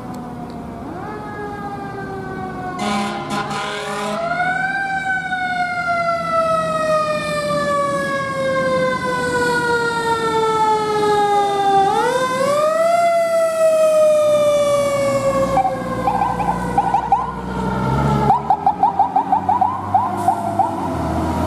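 Fire engine siren winding up, then sliding slowly down in pitch over several seconds, wound up again about twelve seconds in and falling again, over a low engine rumble. Near the end comes a quick series of short horn blasts.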